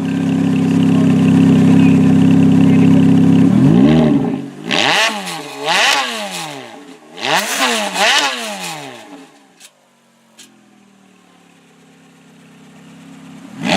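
Ferrari F430's V8 engine held at steady high revs, then blipped sharply several times in quick succession, each rev rising and falling fast. It drops back to a quiet idle partway through and is blipped once more at the end.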